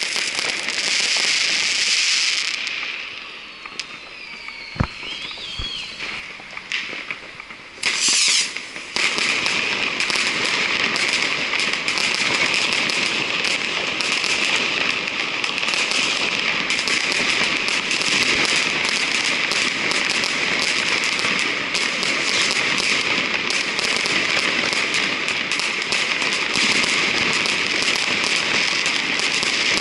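Dense barrage of fireworks and firecrackers crackling and banging. A few seconds in it thins out, with whistling fireworks gliding in pitch and a couple of single sharp bangs. About eight seconds in a loud burst sets off a continuous dense crackle of rapid small bangs.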